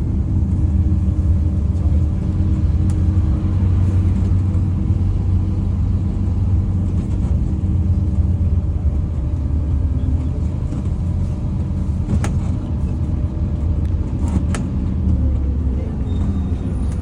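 Scania N230UD Omnicity double-decker bus running under way, heard from inside: a steady low diesel engine rumble with road noise. Two sharp knocks or rattles come in the second half.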